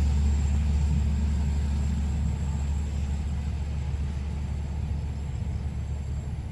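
Low, steady vehicle rumble that slowly fades.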